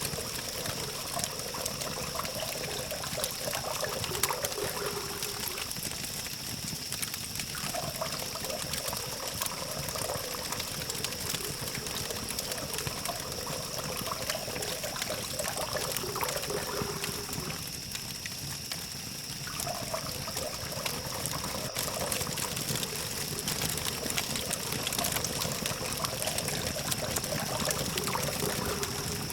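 Campfire burning, a dense run of small crackles and snaps over a steady hiss, with the hum of distant traffic underneath.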